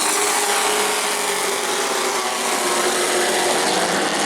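A pack of race trucks running at speed around a short oval track, giving a steady, loud wash of engine noise.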